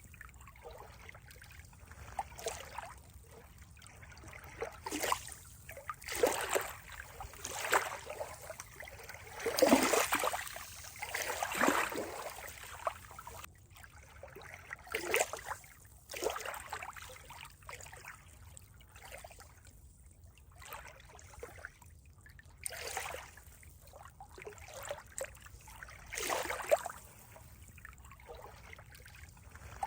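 Water trickling and splashing in irregular surges a second or a few apart, with a faint steady wash between them.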